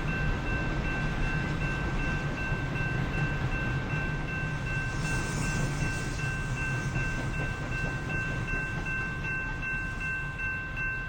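Freight train rolling by with a steady low rumble, thin high steady tones ringing over it and a brief hiss about five seconds in.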